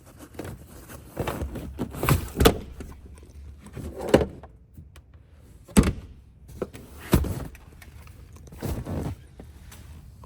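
A series of sharp thunks and clunks, about six over ten seconds, with softer rustling and handling noise between them.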